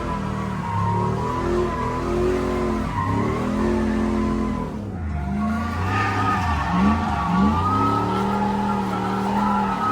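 Drift car engine revving up and down repeatedly with tyre squeal and skidding noise during a drift run. About five seconds in the sound dips briefly, then carries on with a different rise and fall of revs.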